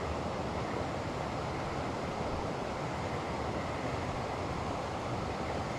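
Steady rushing of flowing creek water, an even hiss-like noise with no breaks.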